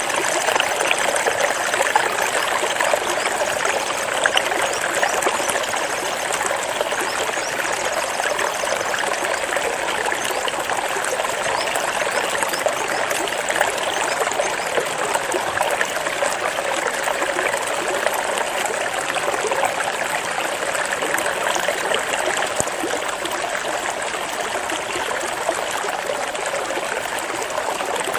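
Flowing water running steadily without a break, an even rushing noise.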